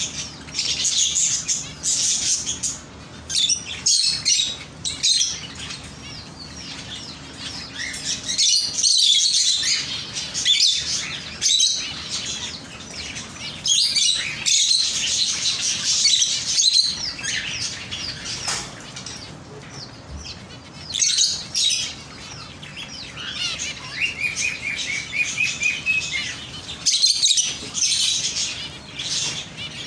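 Many small birds chirping and twittering at once, their high calls overlapping in busy bursts that rise and fall every few seconds.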